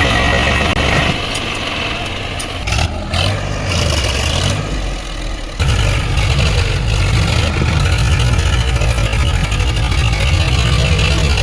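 Heavy diesel engine running steadily at low revs. The sound changes abruptly about a second in and again about halfway through.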